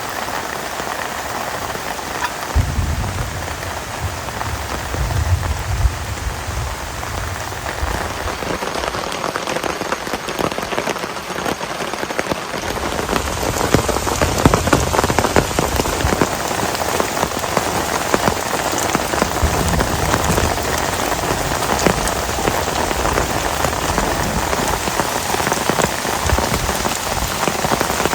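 Heavy rain falling, a dense steady hiss of drops that grows a little heavier about halfway through. A low rumble comes and goes during the first half.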